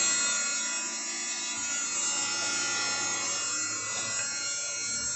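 Vacuum cleaner motor running with a steady whine.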